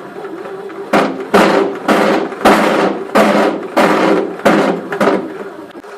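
Moulinex bread maker running with a steady motor hum and a series of loud knocks, about eight at a little under two a second starting about a second in: the abnormal noise of a faulty unit, accepted as a warranty defect.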